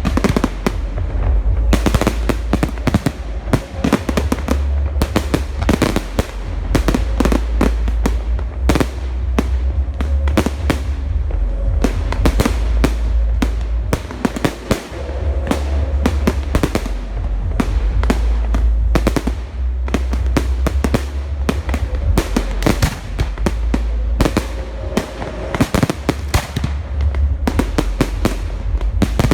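Large professional fireworks display: shells bursting in a rapid, unbroken barrage of bangs and crackles over a deep low rumble.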